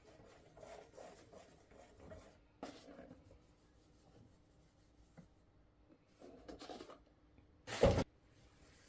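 Quiet rubbing and handling noises, with one louder knock near the end.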